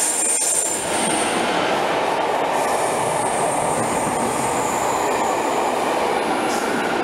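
Locomotive-hauled Network Rail test train passing through the station at speed without stopping: a steady rush of wheels on rail close by, with a thin high whine over the middle.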